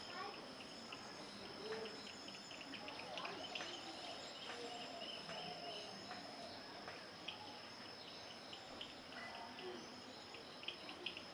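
Faint insect chorus: a steady high-pitched drone with quick, repeated chirping ticks over it.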